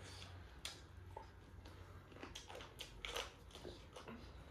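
Chewing and biting into chicken: faint, irregular crunches and clicks.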